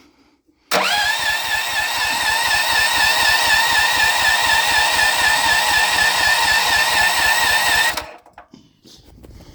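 Electric starter cranking a Honda 15 HP engine for about seven seconds, then cutting off abruptly. A steady starter whine wavers with even compression pulses about five a second, and the engine never fires: it turns over but won't start.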